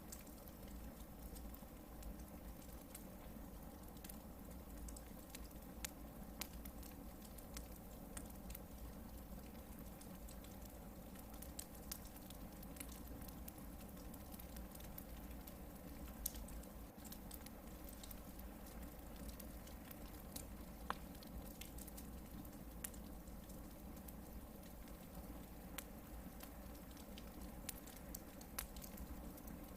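Hardwood logs burning in a campfire, crackling with scattered sharp pops over a faint steady background.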